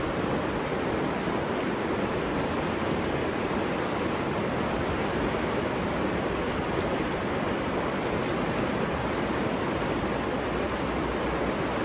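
A river running steadily, with an even rush of flowing water.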